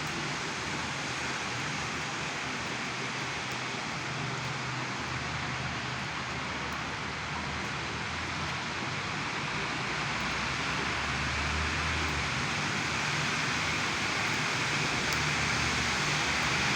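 Heavy rain falling steadily, a dense even hiss that grows a little louder in the second half, with a low hum coming and going underneath.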